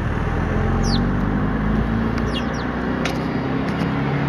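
Sparrows chirping, a few short downward chirps about a second in and again near the middle, over a steady low motor hum such as an idling vehicle.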